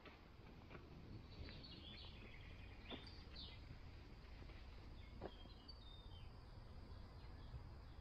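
Faint songbird song: a few short, high chirping phrases, with a handful of soft clicks over a steady low rumble.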